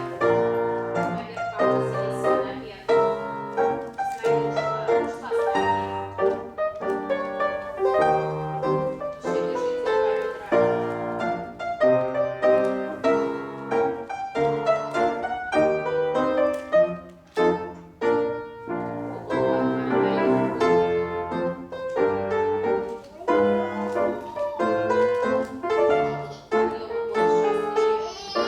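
Piano playing classical-style music in a steady, even rhythm, the usual accompaniment for ballet class exercises.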